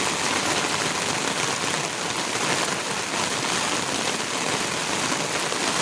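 Heavy rain falling: a loud, steady, dense hiss of rain.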